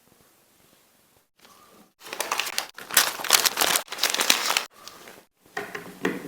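Crinkling and crackling in several short bursts, loudest from about two to five seconds in, with sudden breaks between them.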